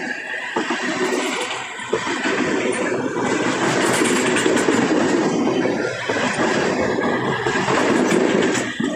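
Freight train of bulk ethanol tank cars rolling past, with a steady rumbling noise of steel wheels on the rails.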